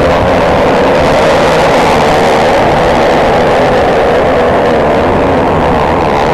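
Nitro hill-climb racing motorcycle engines running loud and steady at high revs, the pitch wavering a little.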